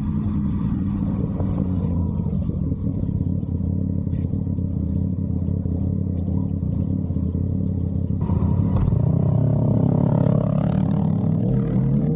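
Yamaha MT-09 three-cylinder engine through an SC Project aftermarket exhaust, running steadily under way, then getting louder about eight seconds in with its pitch climbing as it accelerates near the end.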